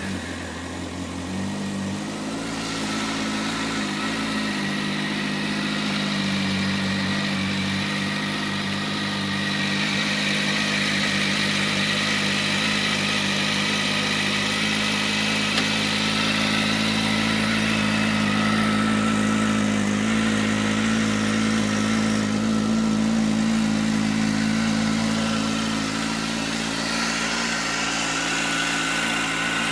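Kawasaki Z1000's inline-four engine idling just after a start; the idle picks up slightly in the first couple of seconds, then runs steady.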